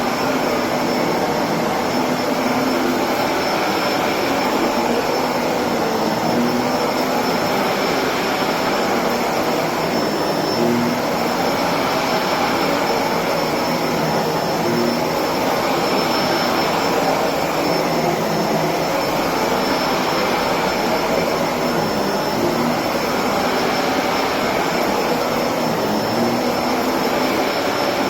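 Electrolux Precision bagless upright vacuum cleaner running steadily, a constant rushing motor-and-airflow noise with a thin high whine on top.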